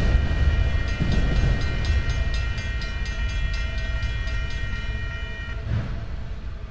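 Train passing and receding: a low rumble fades steadily away. Over it run a steady high ringing of several tones and a rapid run of clicks, both of which stop about five and a half seconds in.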